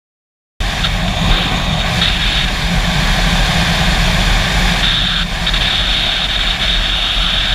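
Yamaha R3 motorcycle ridden at steady speed: a loud, even rush of wind and engine noise with a heavy low rumble. It cuts in suddenly about half a second in.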